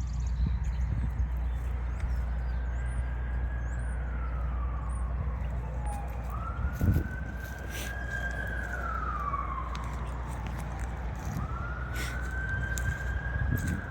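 Emergency vehicle siren wailing: a slow rise, a hold and a long fall in pitch, three times over.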